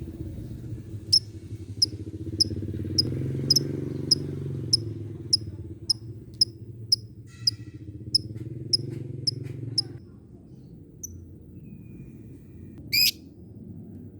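Lovebird giving its 'ngetik' call: short, sharp, high ticks repeated steadily about every 0.6 seconds, like typing. The ticks stop at about 10 seconds, and a single louder call comes near the end. A low steady rumble sits under the ticks until they stop.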